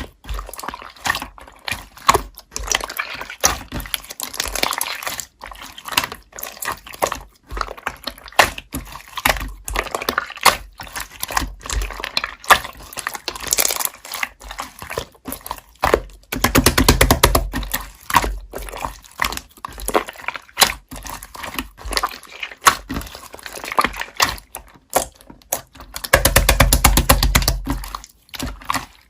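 Slime being squeezed, poked and stretched by hand, giving wet squishes, sticky clicks and small pops. Twice, at about 16 s and near the end, it gives a couple of seconds of fast, dense crackling.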